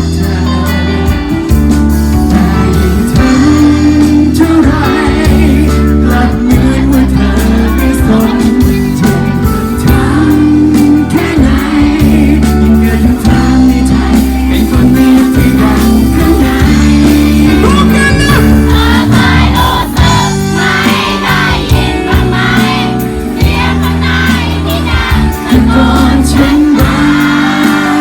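Pop ballad music with singing over a full band backing, with a strong steady bass line.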